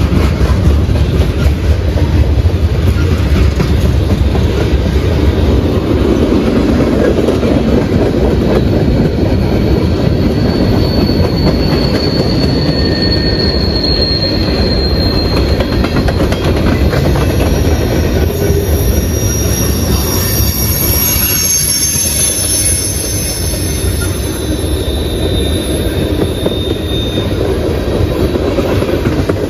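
Freight cars of a CSX train rolling past in a steady loud rumble with wheel clatter. About midway, thin high-pitched wheel squeals begin to come and go over the rumble.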